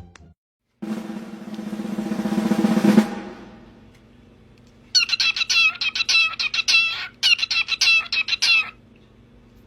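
A drum roll swells and cuts off about three seconds in. Then a bird gives a burst of rapid, chattering clucks for about four seconds.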